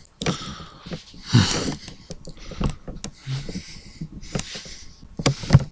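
A person breathing and sniffing close to the microphone, in several short hissy breaths, with scattered clicks and knocks; the loudest knock comes near the end.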